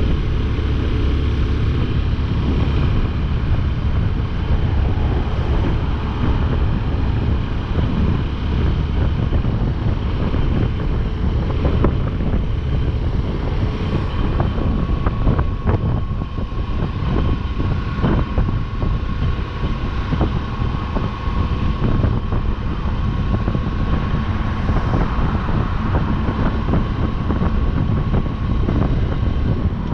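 Motorcycle engine running steadily at road speed, with wind noise on the microphone and a few short knocks around the middle.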